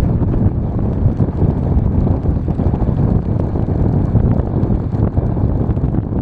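Wind buffeting the microphone in a snowstorm: a steady low rumble.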